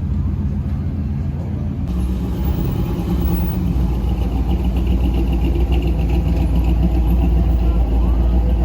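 A car engine running with a steady low rumble, getting louder about two seconds in and then holding steady.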